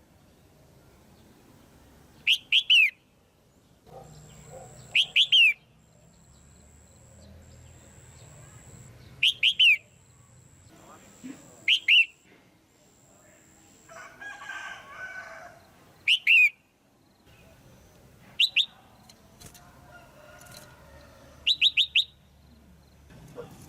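Female red-whiskered bulbul calling: short, sharp notes in quick groups of two to four, repeated every two to three seconds.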